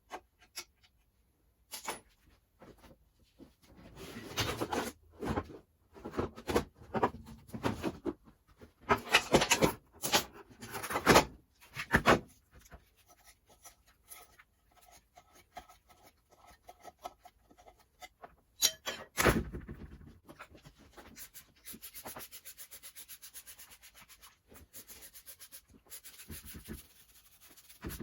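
Hand work on a rear suspension hub: irregular rubbing and scraping of metal parts. About two-thirds of the way through comes a fast, even rattle lasting several seconds.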